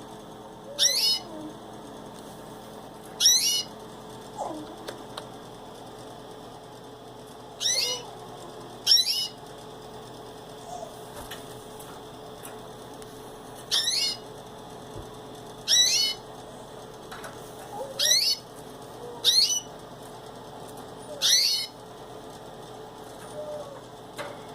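Pet canary calling: about nine short, high, downward-sweeping call notes, one every one to five seconds, over a faint steady hum.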